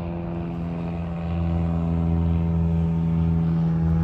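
Steady engine-like hum with several held tones, getting louder about a second in.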